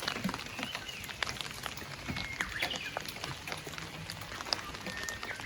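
Rain falling, with scattered drops ticking irregularly close by, and a few faint bird chirps.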